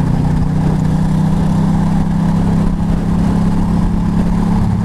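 Motorcycle engine running at a steady cruising speed, with wind and road noise over the helmet microphone.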